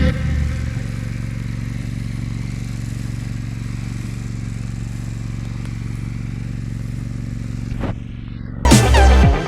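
Tractor engine running steadily at a constant speed, with music coming back in loudly near the end.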